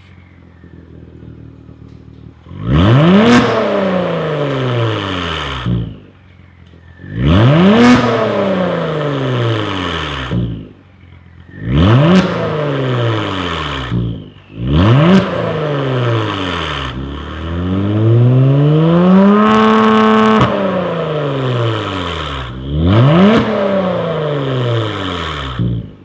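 Exhaust of a Genesis G80 Sport's 3.3-litre twin-turbo V6, fitted with aftermarket downpipes, mid-pipe and rear section and a variable valve exhaust, revved six times from idle. Each rev climbs sharply and falls back. The fifth builds up more slowly and is held high for a couple of seconds before dropping.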